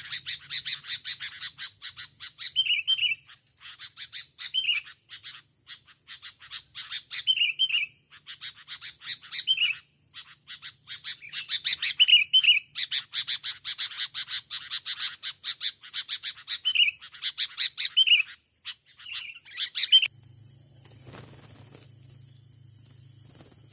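Sooty-headed bulbul calling: rapid, dense chattering with short bubbly two-note phrases repeated every second or two. It stops abruptly near the end, leaving a faint low hum.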